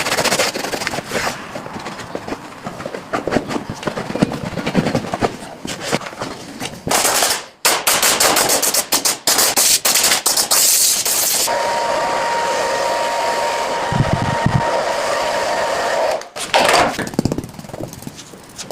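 Shoe-shining sounds: rapid, vigorous strokes of a brush or cloth against shoe leather, rattling out in quick runs. For about four seconds past the middle a steady hiss with a held tone takes over, then the strokes resume.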